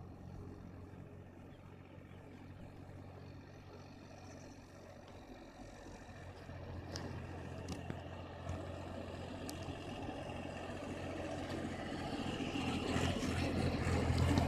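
A steady low engine hum that grows steadily louder over the second half as a vehicle comes closer, with a few sharp clicks in the middle.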